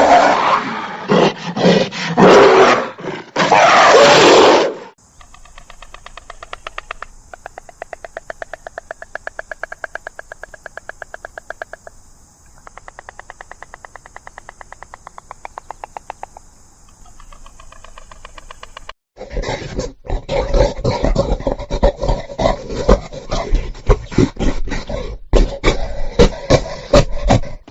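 A big cat roaring for about five seconds. Then a quieter animal call that pulses rapidly and evenly for about fourteen seconds. Then loud, fast, repeated animal calls to the end.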